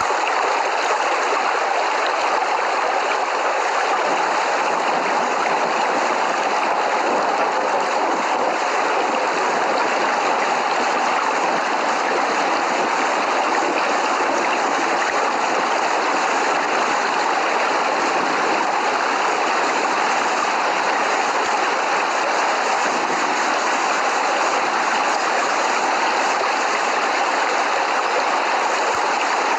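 Steady rain falling, an even rushing hiss that holds unchanged, with no thunder.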